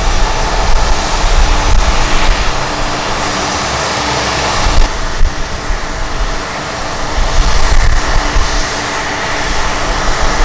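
Jet airliner engines running: a loud, steady noise with a couple of held whining tones, over an uneven low rumble from strong wind on the microphone.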